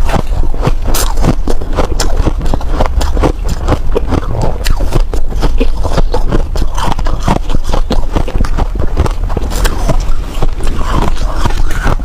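Snow ice being bitten and chewed close to the microphone: a dense, irregular run of sharp, loud crunches with no pause.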